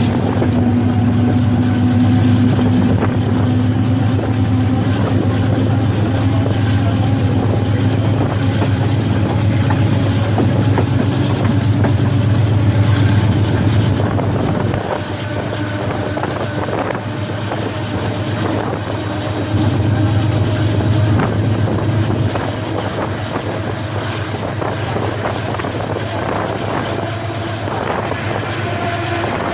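Train under way, heard with wind on the microphone: a steady low diesel-locomotive engine drone. A faint tone rises slowly over the first seconds, and the sound eases a little about halfway through.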